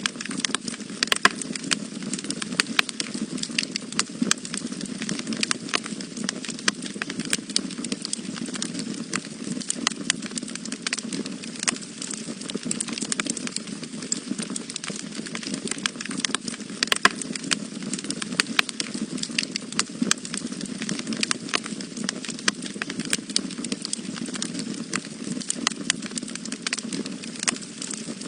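Wood fire burning in a fireplace: a steady low rumble of flames with frequent, irregular sharp crackles.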